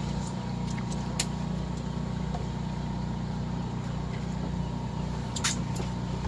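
A boat's engine running steadily, a low even drone, with a couple of short sharp clicks from tackle or gear about a second in and near the end.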